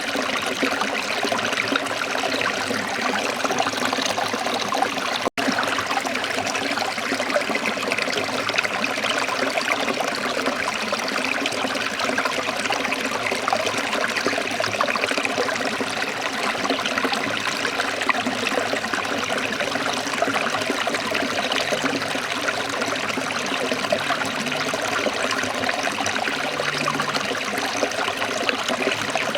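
Waterfall: water falling and rushing in a steady, unbroken wash of noise, with a split-second dropout about five seconds in.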